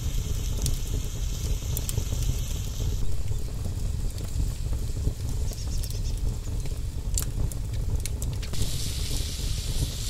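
Tomato slices and green peppers sizzling in oil in a pan over a wood fire; the sizzle eases after about three seconds and comes back louder near the end, with a few sharp clicks shortly before. A steady low rumble runs underneath.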